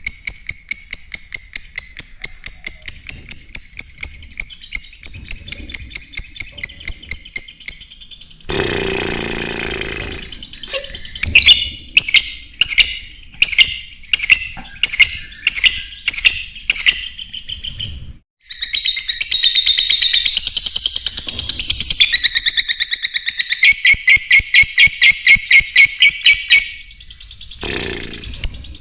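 Lovebirds calling in high, shrill chirps, spliced together from separate recordings. A fast run of chirps gives way to a brief burst of noise, then loud single chirps about once a second. After a sudden cut about two-thirds in, the fast chirping resumes.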